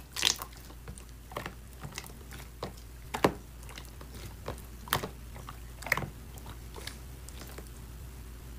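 Slime being squeezed and poked, giving scattered sticky clicks and pops, the loudest about a third of a second, three seconds, five seconds and six seconds in.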